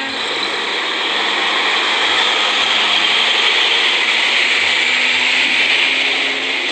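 Diesel fuel tanker truck driving past close by: a loud, steady rush of engine and tyre noise.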